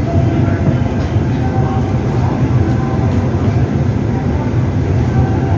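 Steady low rumble of an electric commuter train at a station, mixed with the general noise of a busy platform.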